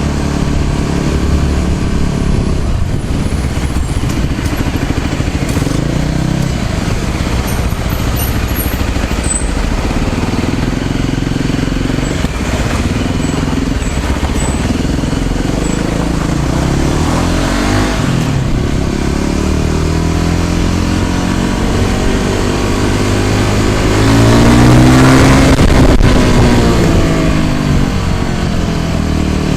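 Small motorcycle engine running under way on the road, its pitch changing with the throttle. About twenty-five seconds in the sound swells to its loudest, its pitch rising and then falling.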